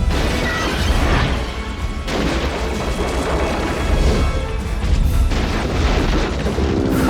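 Action-film soundtrack: a dramatic music score mixed with a continuous deep low rumble and several sudden booms and crashes.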